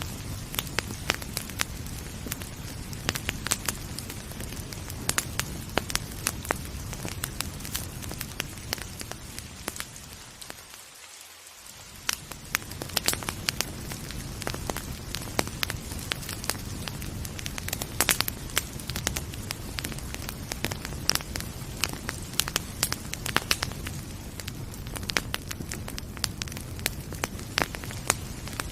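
Wood fire crackling with frequent sharp pops over a steady hiss of rain and a low rumble. The low rumble briefly drops away about eleven seconds in, then returns.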